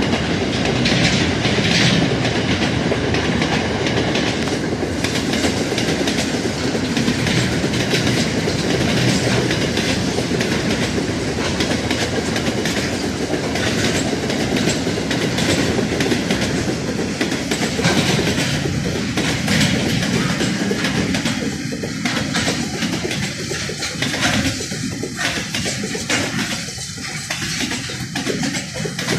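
Empty steel wagons of a freight train rolling past steadily, their wheels clicking over the rail joints in a continuous clickety-clack.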